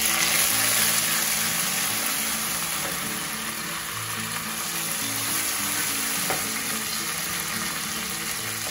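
Sliced onions, fried golden in hot oil and ghee, sizzling steadily in a kadhai as fresh mint leaves are added and stirred in with a wooden spoon.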